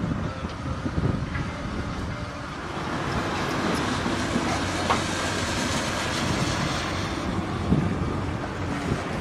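Heavy machinery running: a steady rumble with rattling metal clatter, growing a little louder a few seconds in.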